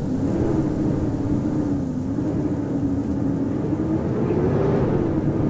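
Howling blizzard wind: a steady rush of wind with a low moaning tone that slowly wavers up and down in pitch.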